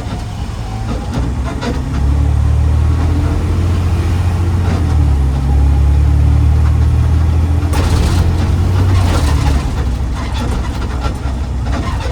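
Garbage truck engine running while the truck drives, a deep rumble that grows louder about two seconds in and again around five seconds in. A burst of rattling road noise comes near eight seconds.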